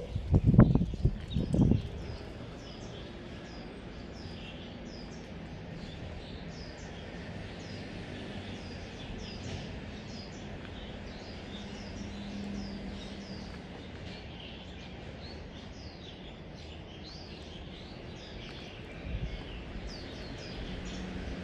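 Small birds chirping repeatedly over a steady outdoor background, after a few loud low thumps in the first two seconds.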